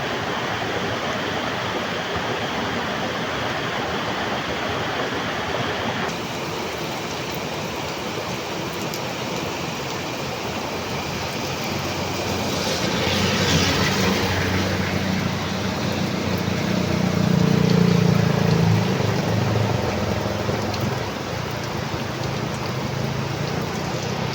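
Heavy rain falling in a steady, dense hiss. About six seconds in the hiss changes abruptly to a duller sound, and from about halfway a low rumble swells, peaks, and fades out again a few seconds before the end.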